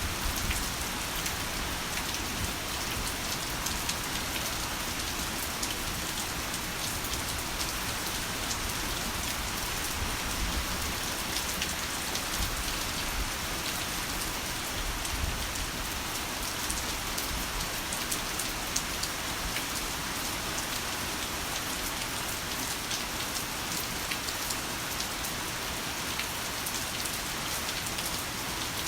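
Heavy rain falling steadily, a dense even hiss of rain on a surface with individual drops ticking through it.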